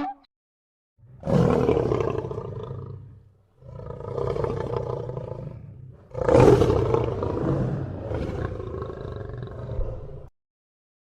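A big cat roaring three times in a row, each roar lasting a few seconds. The last roar is the loudest and longest.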